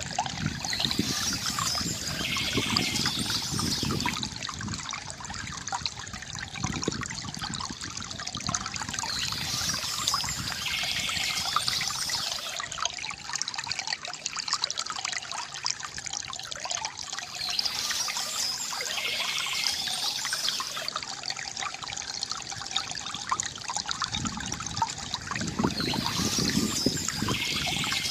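Shallow river water gurgling and trickling steadily, with birds chirping in short bursts that come back about every eight or nine seconds.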